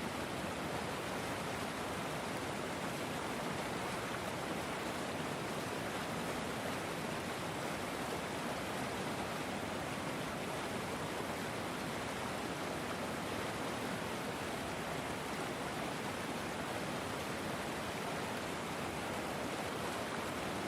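River water flowing, a steady, even rush of noise without breaks or changes.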